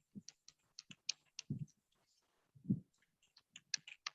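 Typing on a computer keyboard: irregular, quick key clicks, with a short low sound about two-thirds of a second before the middle and another near the middle.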